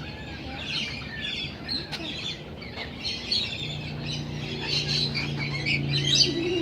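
Many birds chirping and squawking at once, an unbroken chorus of overlapping high calls. A low steady hum comes in about three and a half seconds in.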